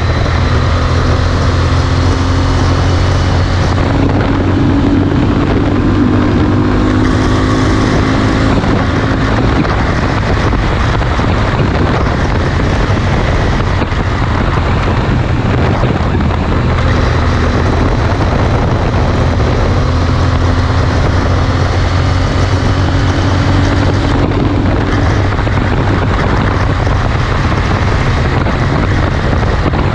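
Yamaha Super Ténéré 1200 parallel-twin engine with a Mivv Speed Edge aftermarket exhaust, running steadily at motorway cruising speed. Heavy wind rush on the microphone mixes with it.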